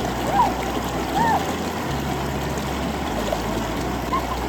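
Steady rush of water in a shallow river at a waterfall, with a few short high squeaks in the first second or so.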